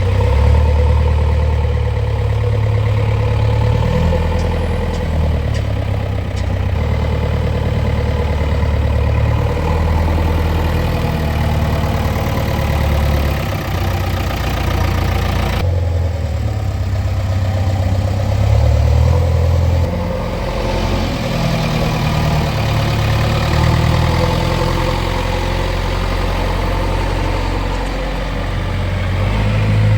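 Diesel engines of earthmoving machinery running, the low engine note rising and falling as they work. The sound changes abruptly about halfway through.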